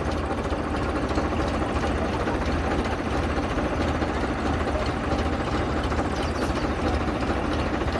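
Farmtrac diesel tractor engine running steadily while the tractor works to pull a trolley out.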